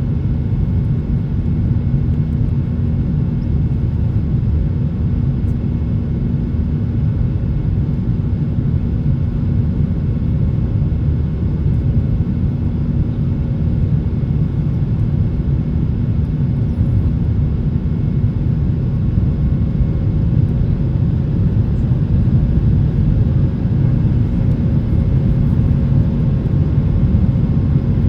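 Cabin noise inside a Boeing 737-800: its CFM56-7B jet engines and the airflow make a steady, loud low rumble with a constant hum. It swells slightly near the end.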